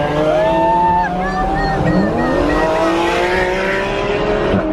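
Sports-car engines accelerating, heard from inside a car in a supercar convoy. Their pitch climbs steadily as the cars speed up, with a short dip and rise about two seconds in.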